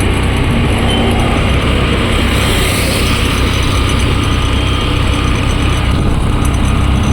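Steady motor-vehicle engine and road noise with a heavy low rumble and no clear changes.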